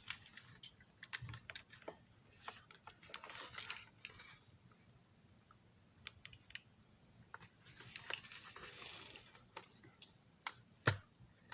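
Faint, scattered clicks and short stretches of light scraping from small hand tools and plastic parts being handled on a model passenger car. A sharper single click comes near the end.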